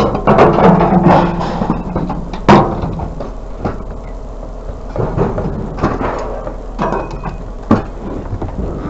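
Scrap being worked by hand while copper line is pulled free: a series of irregular metal knocks and clanks. There is scraping in the first second or so, and sharp bangs about two and a half seconds in and again near the end.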